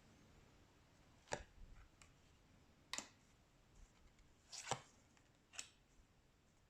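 Oracle cards being handled in a flip-through: a few short, soft taps and slaps of cards being turned over and set down, spaced a second or two apart, with a quick pair near the middle.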